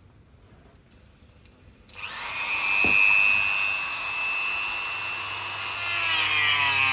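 A small high-speed power-tool motor starts about two seconds in, its whine rising quickly and then holding steady. Near the end it gets a little louder and several falling tones appear.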